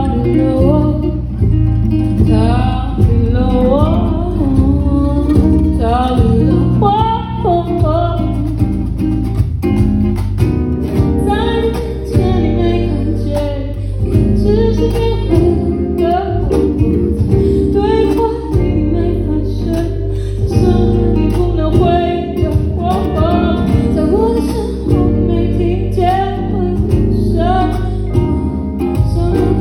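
A band playing a song live: a singer's voice carries the melody over guitar and a steady bass line.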